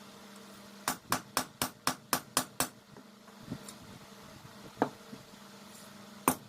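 A hammer striking the steel of a blade being forged from a car leaf spring. A quick run of about eight blows, about four a second, is followed by a few lighter single strikes, all over a steady low hum.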